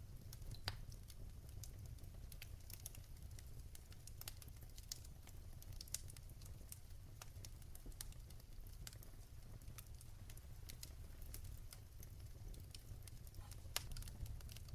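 Wood fire crackling in a fireplace: irregular sharp pops and ticks, a few louder ones about a second in, around six seconds and near the end, over a low steady rumble.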